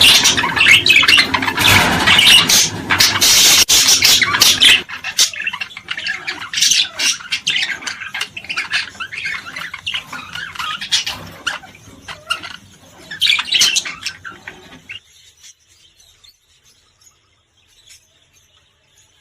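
Cage birds chirping and chattering busily, many calls overlapping at first, thinning to scattered chirps after about five seconds and dying away almost completely for the last few seconds.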